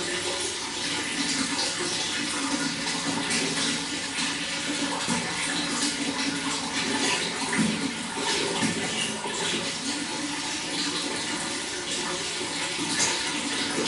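Running water flowing steadily, with small splashes and gurgles throughout.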